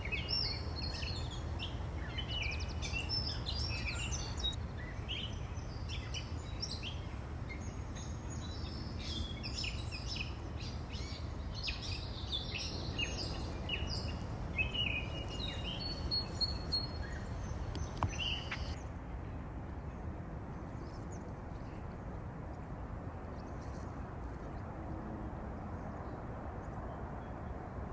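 Several birds chirping and singing over a steady low hum of distant highway traffic. The birdsong stops about two-thirds of the way through, leaving only the traffic hum.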